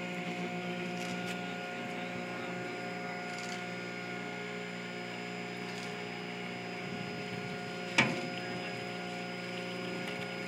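A small fishing boat's engine running steadily, a constant hum, with one sharp knock about eight seconds in.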